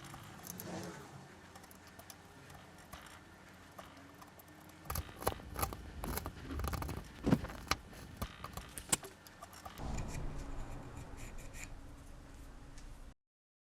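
A saya nomi hand chisel paring wood: irregular scraping with sharp clicks, busiest from about five to nine seconds in, then stopping abruptly near the end.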